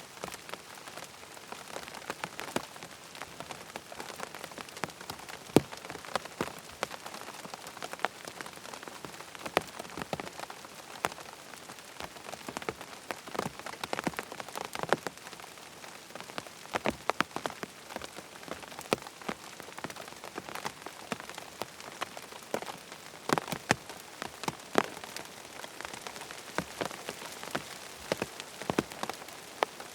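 Steady rain falling on a tent's fabric, with a constant light hiss and many separate heavier drops tapping sharply on the canvas.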